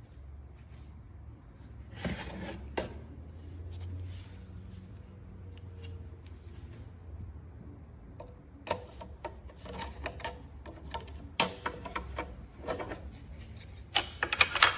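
Handling noises: scattered clicks, knocks and rubbing, with a quick cluster of sharp clicks near the end, over a steady low hum.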